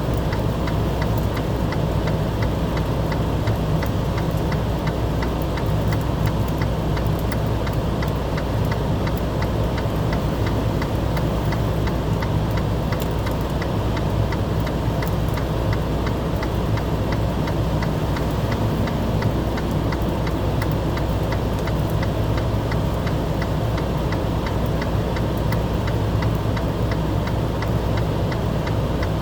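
An engine running steadily at idle, with a fast, regular light ticking over the low hum.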